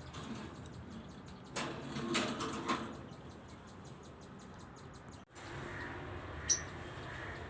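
Pet budgerigars chirping, with a cluster of short chirps and clicks about two seconds in and one brief high chirp near the end.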